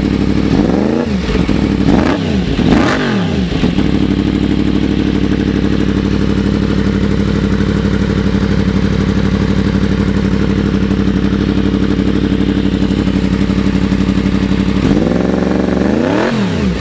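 Yamaha FZ-10's crossplane inline-four, running through a Toce slip-on exhaust with a Danmoto cat delete, blipped three times in quick succession, then settling to a steady idle, with one more rev near the end.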